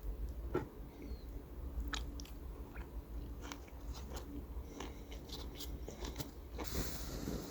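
A person chewing and biting food, with crisp crunchy clicks, and a steady hiss coming in near the end.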